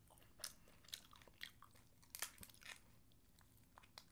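Faint close-up mouth sounds of a person chewing a mouthful of lobster tail meat: soft, irregular wet clicks and smacks.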